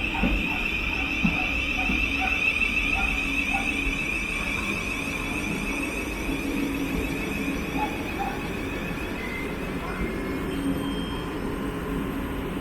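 Thameslink Class 700 train moving at the platform, with a steady high-pitched squeal over a low rumble. The squeal fades away over the first nine seconds or so.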